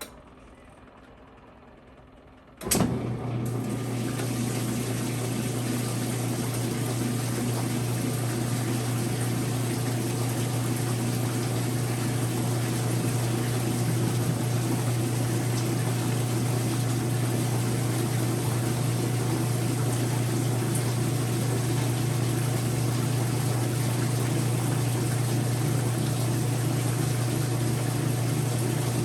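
Whirlpool direct-drive washing machine starting to fill: a click about two and a half seconds in, then a steady rush of water into the tub under a low hum.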